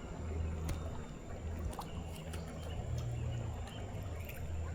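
Creek water running and trickling around a canoe, under a steady low rumble, with a few faint small clicks.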